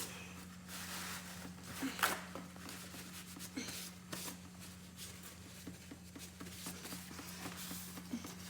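Faint scattered clicks and rustles of hands working under the car at the oil filter mount, over a steady low hum.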